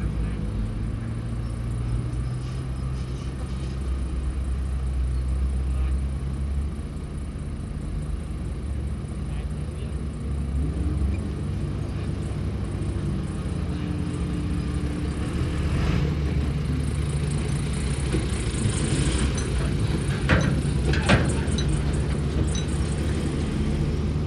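Diesel engines of heavy earthmoving machinery running steadily, the engine note shifting a few times as they work. A few sharp knocks come in the last third.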